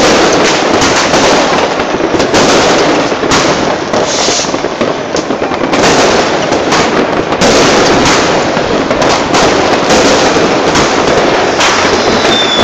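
New Year's Eve fireworks going off all over a city: a loud, continuous barrage of overlapping bangs and crackling with no pause. Near the end a high whistle falls in pitch.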